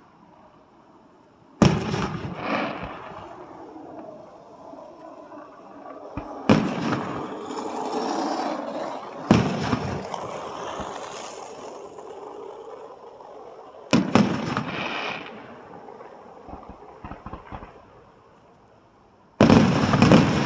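Aerial firework shells bursting: four single sharp bangs spaced a few seconds apart, each trailing off in echo, then a quick cluster of bangs near the end.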